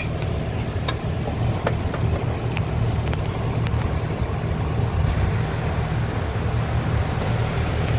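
Steady low rumble of background noise, with a few light clicks of small shifter parts being handled.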